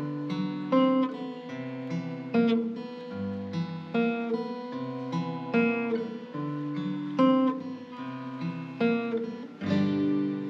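Acoustic guitar picking a tune, with plucked melody notes over a bass line. Near the end a full chord is struck and left ringing.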